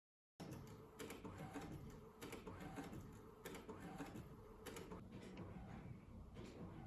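Quiet, irregular clicks and taps, a few each second, from hands handling small items during packing.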